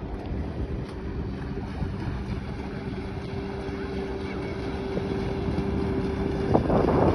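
Motorboat engine running steadily with a held hum, with wind buffeting the microphone. It grows louder and noisier near the end.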